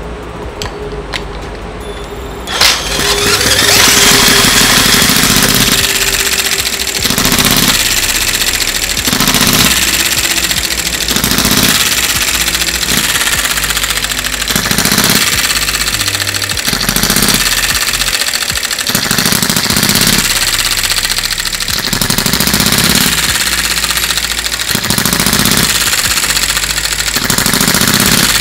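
Miniature 6cc single-cylinder gasoline model engine catching about two and a half seconds in, then running with a fast, rattly firing, over background music.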